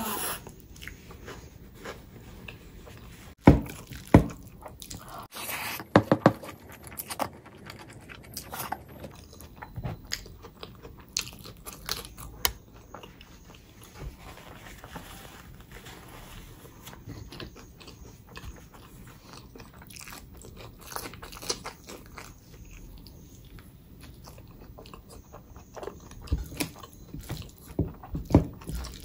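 Close-miked eating: mouthfuls being bitten and chewed, with wet smacks and crunches coming as short sharp clicks. The loudest come about three and a half and four seconds in, and they come thicker near the end.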